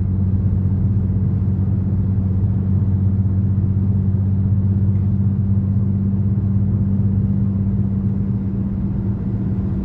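Steady low drone of a vehicle running, heard from inside its cabin, with an even background rush.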